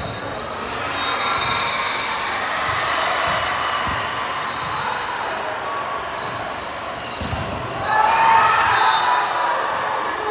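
Indoor volleyball rally: the ball thuds against hands and the court a few times, sneakers squeak briefly, and players' voices grow louder about eight seconds in.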